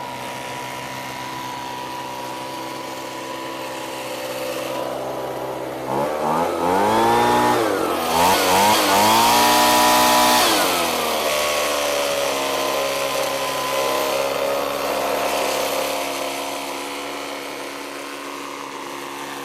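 Ryobi BP42 backpack leaf blower's small two-stroke engine running on a freshly fitted replacement carburetor. It runs steadily, is revved up about six seconds in, holds the higher speed for a few seconds, then drops back.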